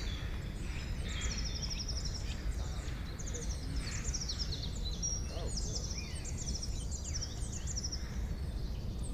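Several songbirds singing together in a forest chorus: high chirps, short whistled phrases and rapid trills of quickly repeated notes, over a steady low rumble of background noise.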